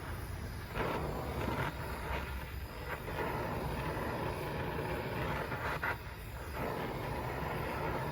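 Steady rushing roar of a torch flame heating a bent steel joint so it can be bent back into place, with a few short louder noises about one, two and three seconds in.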